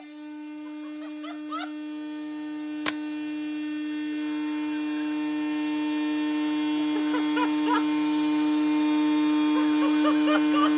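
Washing machine spinning at high speed: a steady high-pitched motor and drum whine that grows gradually louder, with one sharp click about three seconds in.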